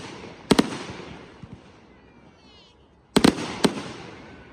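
Consumer fireworks bursting in the sky. A sharp double bang comes about half a second in, then a quick cluster of three or four bangs a little after three seconds, each trailing off in a fading rumble and crackle.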